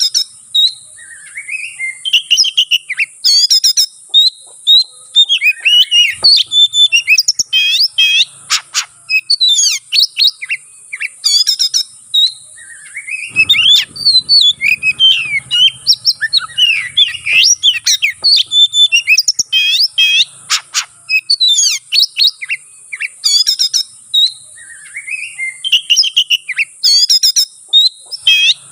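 Oriental magpie-robin (kacer) singing a long, loud song of rapid, varied whistles, chirps and chattering phrases, with only short breaks. Under it runs a steady high hiss.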